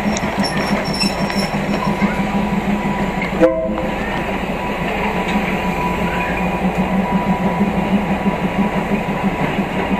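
Diesel passenger train running slowly along the track, with a steady engine drone and rumbling wheel noise, heard from an open carriage window. There is a brief loud break in the sound about three and a half seconds in.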